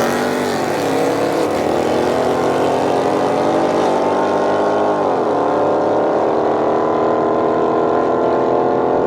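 Car engine accelerating hard at full throttle, its revs climbing steadily. About five seconds in the revs drop sharply at an upshift, then climb again.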